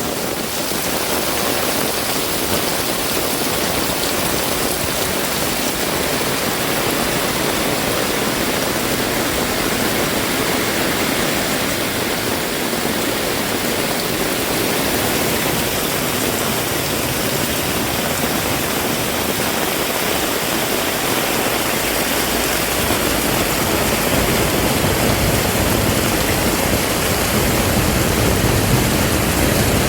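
Heavy rain pouring down in a steady, even hiss. A low rumble builds up about two-thirds of the way through.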